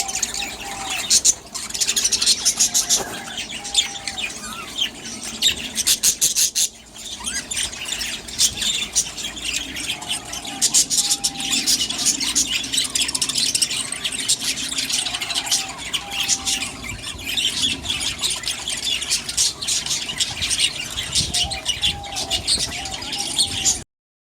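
A flock of aviary birds chattering and chirping densely and without pause, with a few lower whistled notes now and then. The sound cuts off suddenly near the end.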